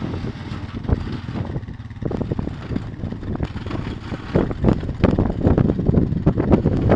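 Storm wind buffeting the microphone in irregular gusts, a low rumbling that flares up again and again and grows stronger about four seconds in.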